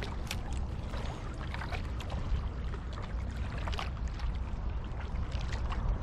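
Wind rumbling on the microphone over water trickling and splashing at the shore, with scattered small irregular clicks.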